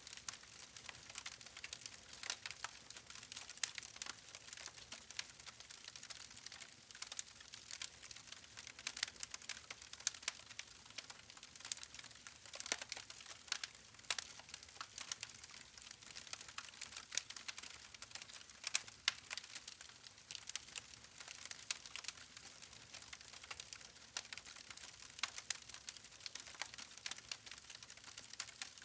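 Wood fire crackling: many sharp irregular pops and snaps of burning logs over a steady soft hiss.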